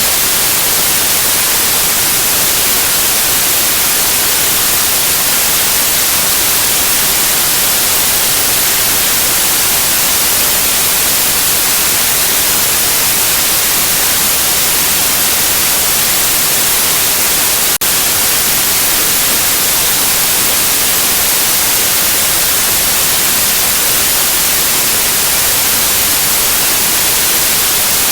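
Steady electronic white noise, an even hiss that does not change, played as a sleep aid for babies. A tiny click with a momentary dip comes about two-thirds of the way through.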